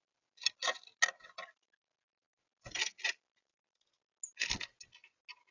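Birds feeding on a balcony: three quick clusters of light taps and clicks.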